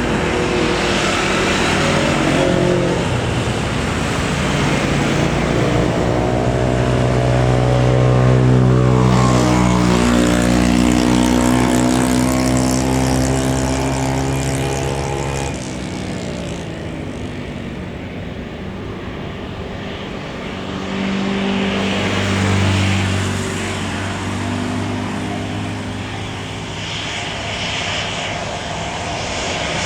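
Engine noise of passing vehicles: a loud, pitched drone that bends in pitch about ten seconds in as it goes by and fades a few seconds later, then a second engine sound rises around twenty-two seconds in.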